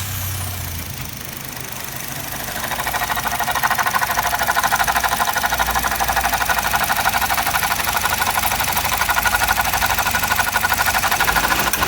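Suzuki Jimny JB64's 660 cc turbo three-cylinder idling just after starting. From about two and a half seconds in, a fast rhythmic frog-like croaking ('geko-geko') rises over the idle, a noise traced to a failing alternator.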